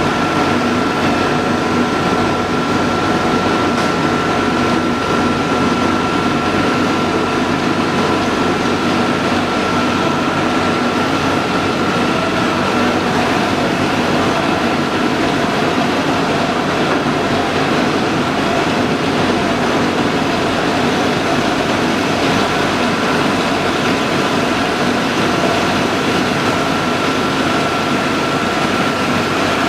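Steady, loud machinery running, a continuous mechanical noise with a steady high whine that fades about halfway through.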